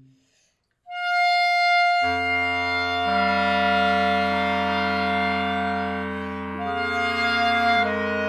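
Clarinet quartet playing: a chord dies away, a single high clarinet note enters alone after a short pause, and about a second later a low bass line and the inner voices join in a sustained chord that moves to new harmonies several times.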